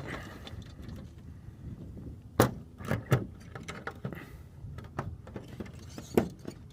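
A few sharp clicks and knocks: one about two and a half seconds in, two close together around three seconds, and one near the end. They come from closing the Cessna 172E's cowling oil-access door after the oil check.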